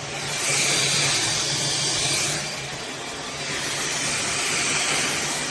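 Cordless stick vacuum running: a steady motor hum under a rushing suction hiss that swells and fades every couple of seconds as the head is worked over the floor.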